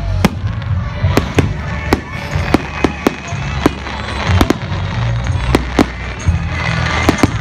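Fireworks going off: a rapid, irregular run of sharp bangs, more than a dozen, over a steady low rumble, with brief crackling in the middle and near the end.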